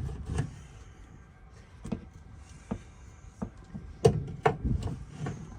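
Scattered knocks and clunks, several in quick succession about four seconds in, over a low rumble.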